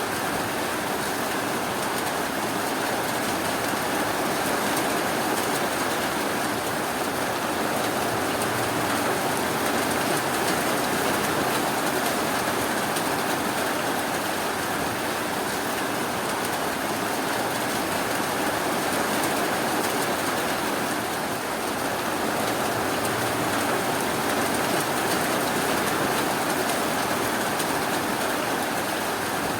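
Steady rainfall, an even hiss of rain falling on surfaces with no thunder or sudden sounds.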